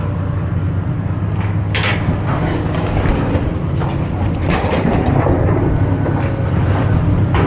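Engine running steadily with a low hum, with a sharp knock about two seconds in and another around four and a half seconds.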